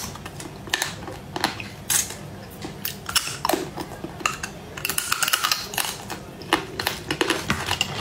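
Close-miked eating of spicy shellfish claws: irregular sharp crunches and cracks of shell and meat being chewed, with wet mouth clicks.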